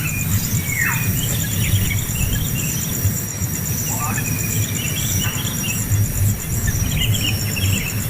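A steady, high, pulsing insect trill with scattered bird chirps and a couple of short downward-sliding calls, over a low rumbling noise.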